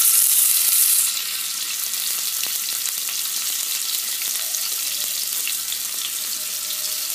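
Oil sizzling as stuffed paneer slices shallow-fry on a flat tawa griddle: a steady hiss, loudest for about the first second, then settling slightly lower.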